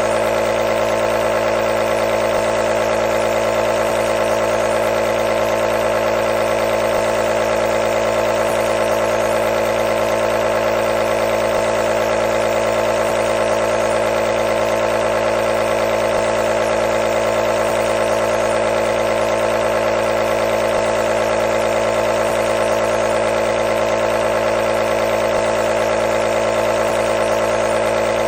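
Nebulizer's compressor running steadily: an even mechanical hum with a strong mid-pitched tone over a hiss of air.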